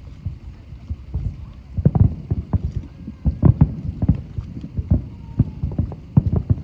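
Fireworks shells bursting in a rapid, irregular series of deep booms, the volley thickening and growing louder about two seconds in.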